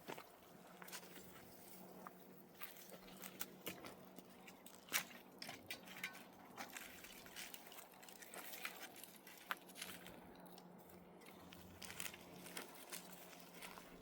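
Faint, irregular clicks and crunches scattered throughout, the sharpest about five seconds in, over a faint steady hum.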